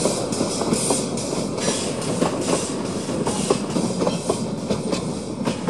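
Narrow-gauge steam train of carriages passing, with the wheels clicking over the rail joints against a steady rumble of the moving train.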